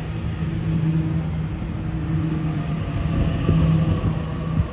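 Sydney Trains electric suburban train moving slowly past along the platform: a steady low electric hum over the rumble of wheels on rail, with faint higher whining tones and a short knock near the end.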